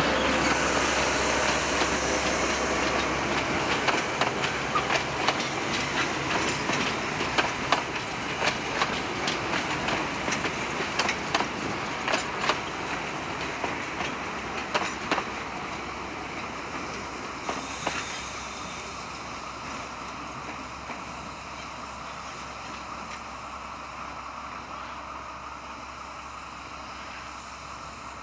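A 760 mm narrow-gauge passenger train rolls past, its wheels clicking over the rail joints in a clickety-clack, with a low diesel engine hum in the first few seconds. The rumble fades steadily as the train moves away, and the clicks thin out about halfway through.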